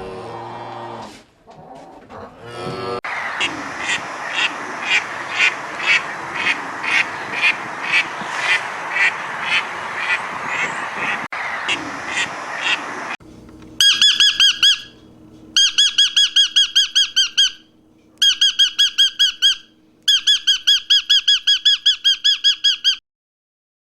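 Birds calling: first a dense chorus with about two louder calls a second, then, about halfway through, runs of rapid, evenly repeated high-pitched calls broken by short pauses, which stop suddenly near the end.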